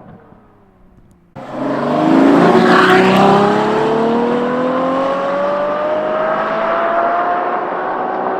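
Ferrari F12 Berlinetta's V12 through a free-flow valved exhaust. A falling note fades away, then after an abrupt cut about a second and a half in, the engine comes in loud and pulls hard, its pitch rising steadily as it accelerates.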